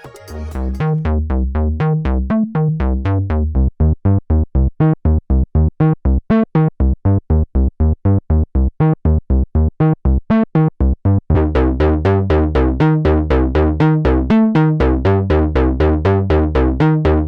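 Roland SE-02 analog monophonic synthesizer playing a fast sequenced bass pattern of repeated notes, fading in at the start. About two-thirds of the way through, the short detached notes start running together and the tone gets brighter.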